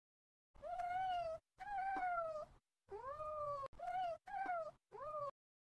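Domestic cat meowing six times in quick succession, each meow rising and then falling in pitch, with dead silence between the calls.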